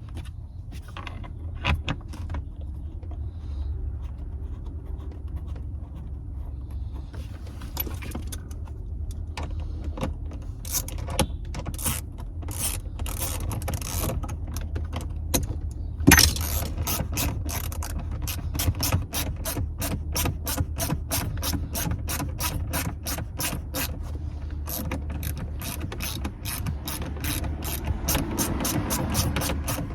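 Hand ratchet wrench clicking as the seatbelt anchor bolts are run in: scattered clicks at first, then a fast, even run of clicks through the second half. A sharp knock comes about 16 seconds in.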